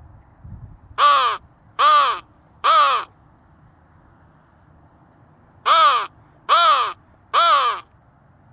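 Flextone Lightning Crow call blown by hand in two series of three short caws, each caw rising and then falling in pitch.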